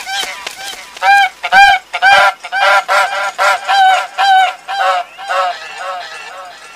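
A flock of domestic geese honking: a rapid run of short, nasal calls, several a second and partly overlapping, that thins out near the end.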